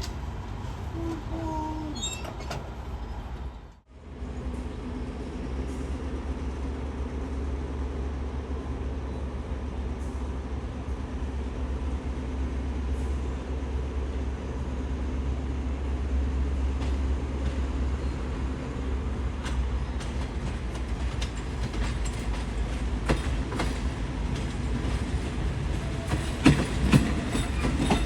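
Train at a station: a steady low diesel rumble with a droning hum, broken by a brief gap about four seconds in. Near the end, sharp clicks and knocks come in, wheels over rail joints as the train moves.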